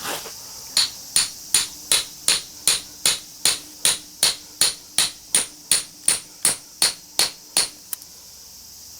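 Hammer blows driving a large cold chisel into a small transformer's iron core, about nineteen sharp, evenly paced strikes, roughly two and a half a second, stopping near the end. Crickets chirp steadily behind.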